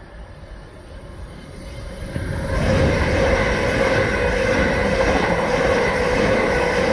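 Train approaching and running past close by: a rumble that grows loud over the first three seconds and then holds, with a steady whine on top.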